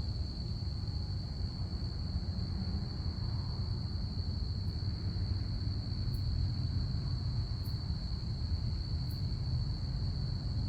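Crickets chirping in a steady, unbroken high trill, over a constant low rumble.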